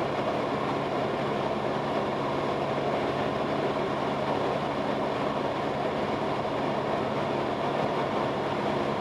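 Cabin drone of a Cessna 172S in flight: its four-cylinder Lycoming IO-360 engine and propeller running steadily with a constant low hum.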